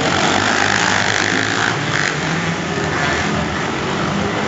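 Engines of several racing vehicles running hard on a dirt track, a steady loud mix of engine noise.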